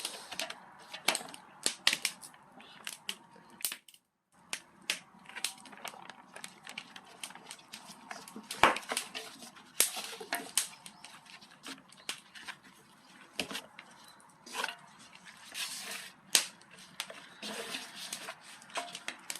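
Irregular clicks, taps and clatter of bowls and utensils being handled while chicken is tossed in its coating, with a few louder knocks.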